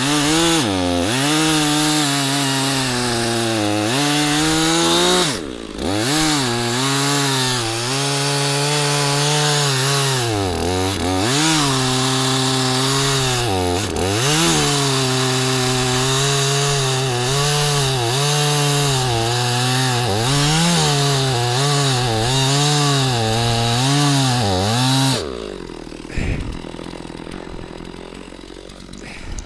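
Stihl MS460 two-stroke chainsaw at full throttle cutting through a large firewood round. The engine pitch sags as the chain bites into the wood and climbs again as it eases off, with a few brief let-offs. About 25 seconds in the throttle drops away and it goes much quieter, with a couple of knocks.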